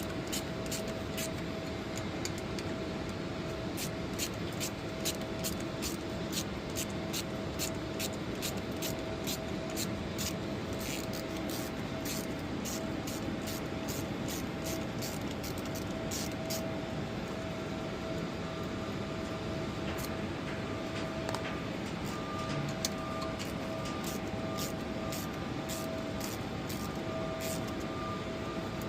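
Steady hum of running machinery or air handling with a constant whine, a second higher whine joining about two-thirds of the way in, and many light, sharp clicks throughout.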